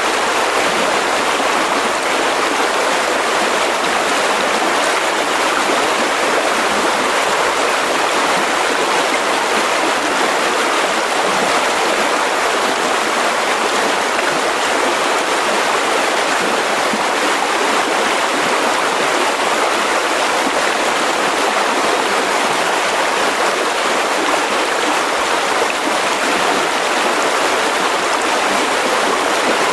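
Mountain river rushing steadily over stones, a continuous even flow of water.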